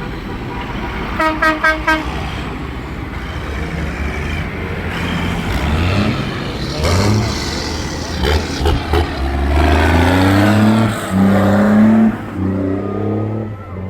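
Tractor engines running on a road, with a quick run of about five horn toots about a second in. Engines then pass close, their pitch shifting as they go by, loudest from about ten to twelve seconds in.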